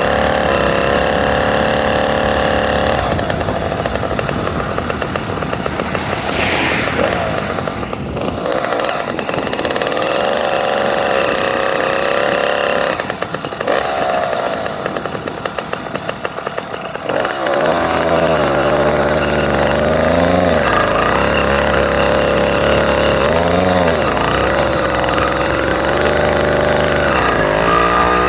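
Small motorcycle engine running as it is ridden, its revs rising and falling again and again. It eases off for a few seconds around the middle, then picks back up.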